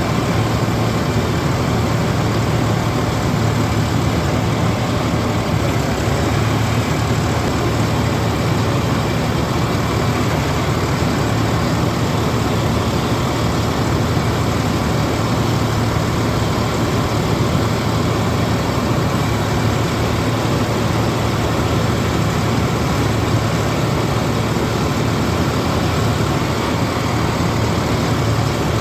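John Deere combine harvester running steadily while harvesting paddy: its diesel engine and threshing machinery make a constant loud drone with a strong low hum.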